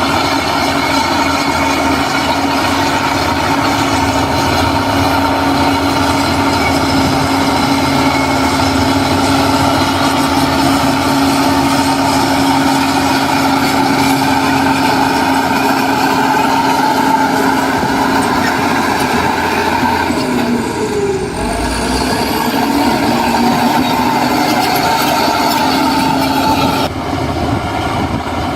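Heavy diesel earthmoving machinery running steadily, a constant engine din with a steady whine over it. The sound dips briefly about three-quarters of the way through and shifts near the end.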